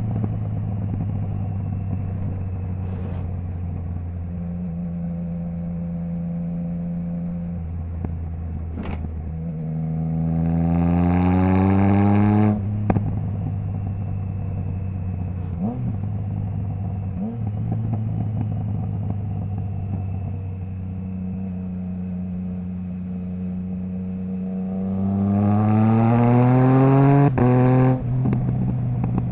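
Triumph Trident 660 inline three-cylinder engine through a Zard stainless full exhaust system with the baffle removed, cruising steadily and then revving hard twice, about ten seconds in and again near the end. Each rise in pitch cuts off suddenly with a sharp crack, the sound of a quickshifter upshift.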